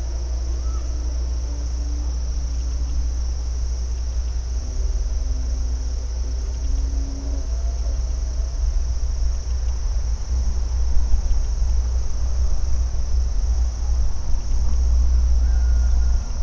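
Crickets or other insects keep up a steady, high-pitched chirring chorus over a constant low rumble, with faint short low-pitched calls now and then.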